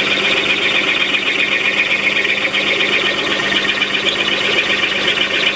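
Metal lathe running with a worn 3/4 inch milling cutter, held in the three-jaw chuck, cutting a spot face into a bore under a gentle feed: a steady hum with a hissing, scraping cutting noise over it. The struggling cutter is on the edge of chattering.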